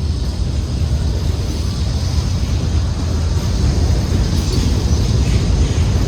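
Union Pacific freight train rolling past, a steady low rumble from its wheels and cars on the rails.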